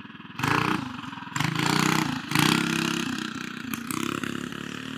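Tillotson 212cc single-cylinder mini bike engine revved hard in three throttle bursts, the torque converter pulling the bike away, then fading as it rides off.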